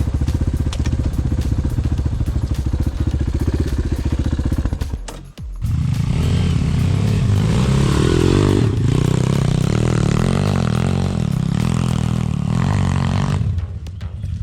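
Dirt-bike (pit bike) engine running at a steady low speed. It cuts out briefly about five seconds in, then runs louder and harder for about eight seconds before dropping back to a lower note near the end.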